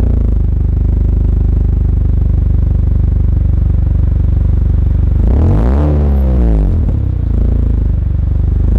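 Honda Accord 2.0T's turbocharged four-cylinder idling through a Rev9 stainless cat-back exhaust and PRL front pipe with a deep, steady exhaust note. About five seconds in it is revved once, the pitch climbing and falling back within about a second and a half, followed by a smaller blip.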